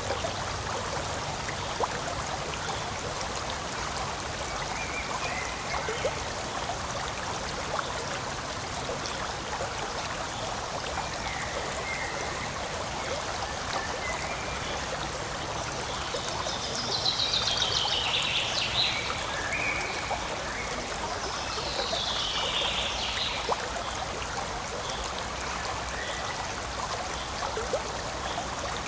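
Forest stream running steadily over stones, an even rush and trickle of water. Twice, past the middle, bursts of high chirping calls rise above the water.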